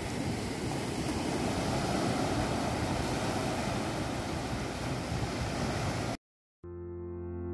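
Steady wash of surf and wind on the shore, an even rushing noise. It cuts off abruptly about six seconds in, and soft ambient piano music starts near the end.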